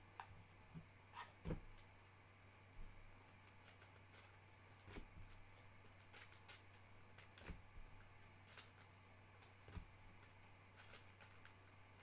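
Faint scattered clicks and soft ticks of trading cards and pack wrapping being handled and flipped through, over a low steady hum.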